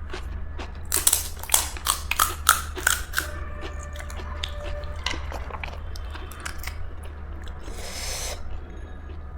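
Crisp pani puri shells cracking and crunching: a quick run of sharp crunches about one to three seconds in, then softer clicks and chewing, with a brief hiss near the end and a steady low hum underneath.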